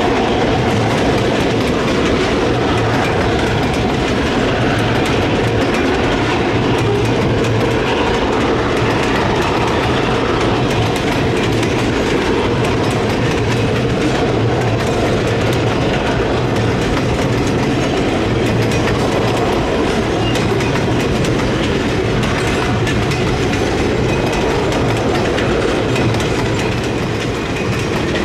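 Sugarcane freight train rolling past close by, its cars' wheels clattering steadily over the rail joints.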